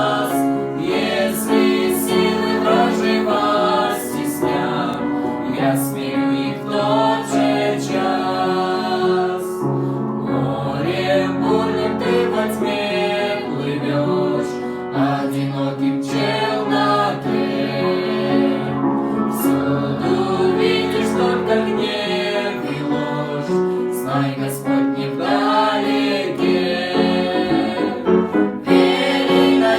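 Music: choral singing over a sustained accompaniment.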